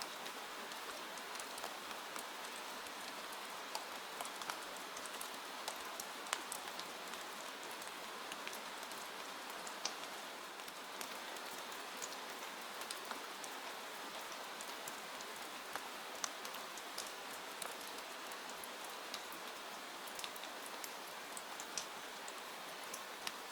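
Steady rainfall: an even hiss with many individual drops ticking sharply on a surface.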